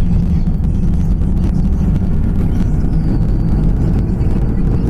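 Inside the cabin of a 2005 Honda Pilot on the move: a steady low rumble of engine and road noise. Only normal driving sounds are heard, with no clunk from the rear passenger side.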